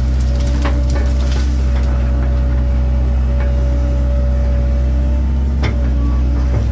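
1997 Link-Belt 2700 excavator's diesel engine running steadily under work, with a steady higher whine over the engine note. A few short sharp knocks, the clearest about five and a half seconds in.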